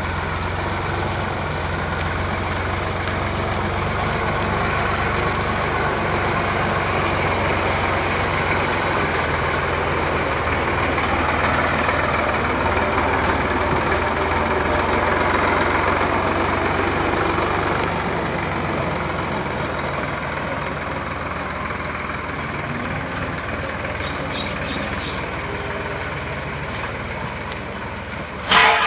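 Sonalika DI 745 tractor's diesel engine running steadily, swelling a little midway and easing off later. A short, loud noise cuts in near the end.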